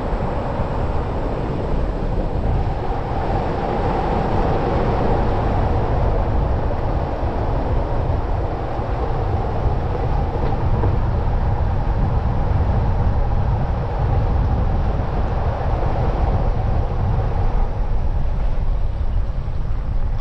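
2024 Jeep Gladiator driving on a backroad: steady road and vehicle noise.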